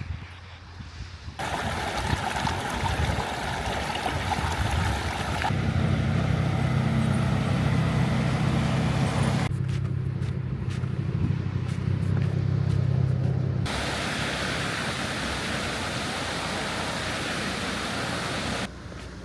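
Running noise of a train, heard as a run of short clips that cut off abruptly every four seconds or so. The clips alternate between a rushing hiss and a low steady hum.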